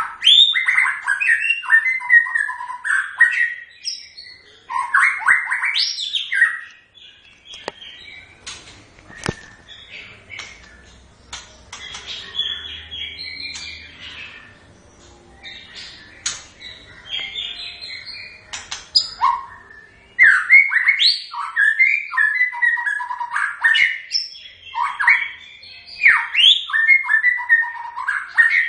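White-rumped shama singing: loud bursts of rapidly changing whistled phrases, softer and sparser calls through the middle stretch, then loud phrases again from about twenty seconds in.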